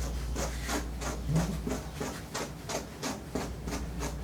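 Quick short rasping strokes, about three a second, with a brief whimper from a Portuguese Water Dog about a second and a half in.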